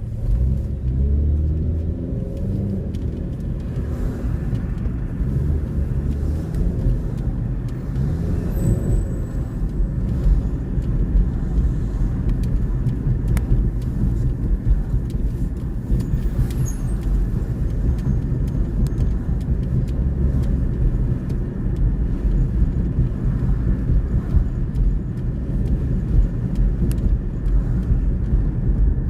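Motor vehicle on the road: a steady low engine and road rumble, with the engine note rising as it speeds up at the start and again about nine seconds in.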